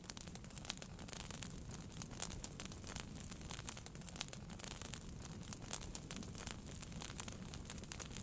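Wood fire burning in a fireplace, crackling and popping with many quick sharp snaps over a low steady rumble.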